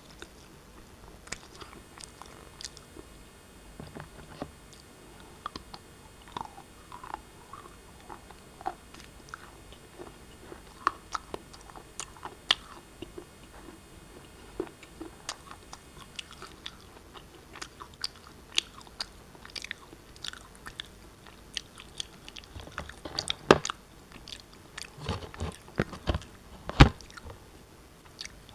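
Pieces of black shale being bitten and chewed: a run of sharp crunches and cracks, scattered at first and coming thicker and louder in the last several seconds.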